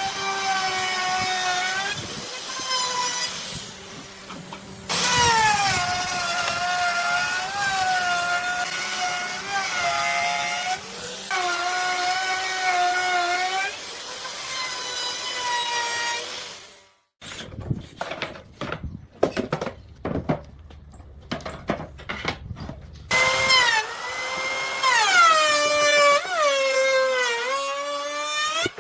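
Electric power tool cutting wood, its motor whine sagging in pitch as it bites and recovering between passes. In the middle it stops and there is a stretch of scattered knocks before the whine returns with deeper dips.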